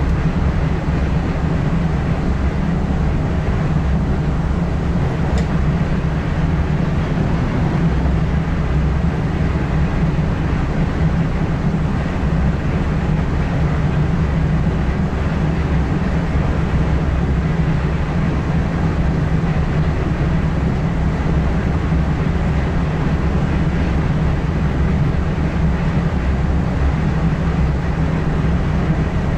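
Steady low rumble of an NS ICM (Koploper) electric multiple unit running along the line, heard from inside the driver's cab.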